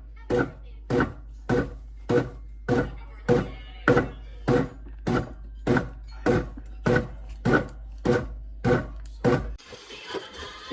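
A steady series of dull knocks, a little under two a second, over a low hum; the knocks and the hum stop shortly before the end.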